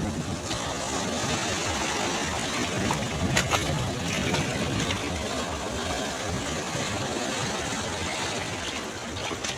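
Sea surf on a beach: a steady wash of breaking waves with a deep rumble underneath, and a couple of short sharp clicks about three and a half seconds in.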